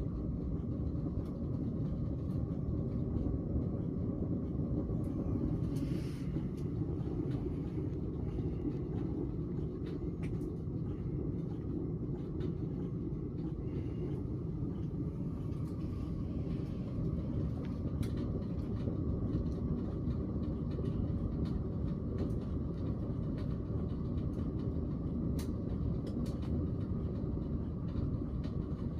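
Wood pellets burning in a Naturehike wood stove with a swirling flame: a steady low rumble of the fire with scattered faint crackles.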